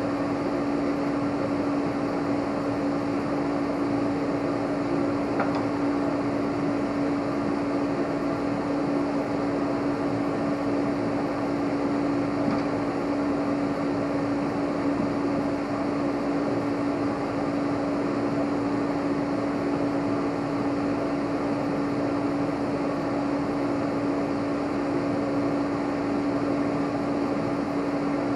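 Steady machine hum with one constant low tone over an even whirring noise, unchanging throughout, like a running fan or blower motor.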